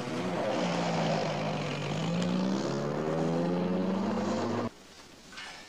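Jeep engine running in a steady drone, its pitch dipping slightly and then rising toward the end before cutting off abruptly.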